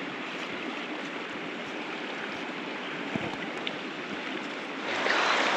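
Steady rush of running water, growing louder near the end.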